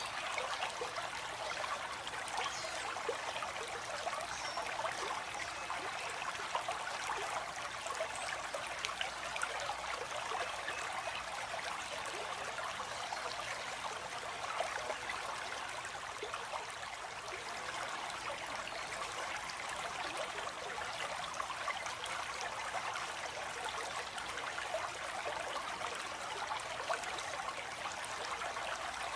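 Water flowing steadily in a stream, a continuous rushing with many small splashes.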